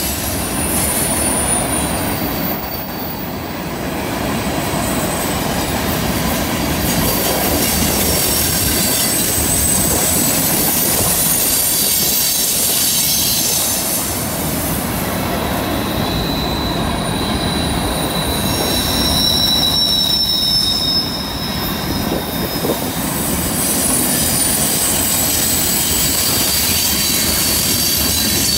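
CN freight train rolling through a curve. The wheels squeal against the rail in thin, high tones that come and go over a steady rumble and clatter.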